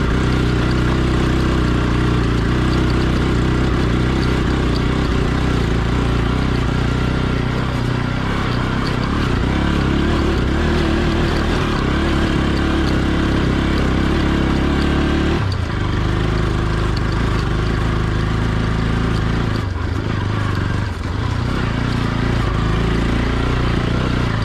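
Motorcycle engine running steadily under way. About fifteen seconds in, the engine note drops abruptly and then carries on lower.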